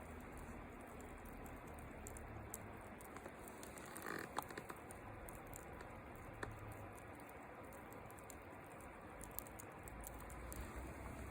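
Small wood fire crackling faintly: scattered sharp pops over a steady low hiss, with a short cluster of pops about four seconds in.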